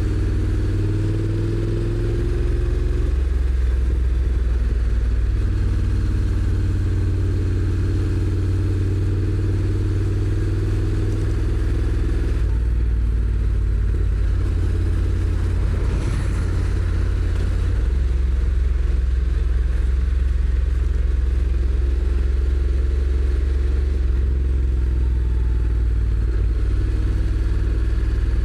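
Honda NC750X's parallel-twin engine running while the motorcycle is ridden, its low note shifting up and down several times as speed and gears change.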